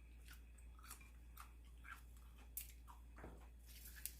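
Faint chewing and mouth sounds of someone eating noodle soup, with a few soft scattered clicks, over near silence.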